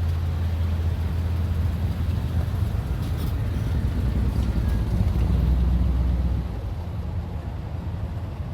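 A motor vehicle engine running steadily with a low drone that eases off slightly near the end.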